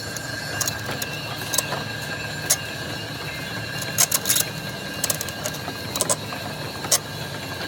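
Irregular sharp metallic clicks and knocks of metal parts and tools being handled during work on a machine, over a steady faint whine.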